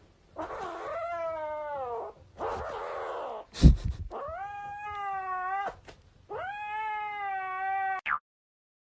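A cat yowling: three long, drawn-out calls of about a second and a half each, with a loud thump between the first and second.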